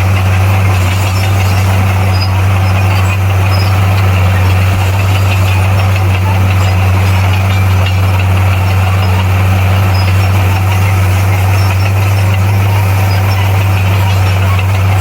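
Diesel engine of heavy earthmoving equipment running steadily at a constant speed, with a deep unchanging hum and no revving.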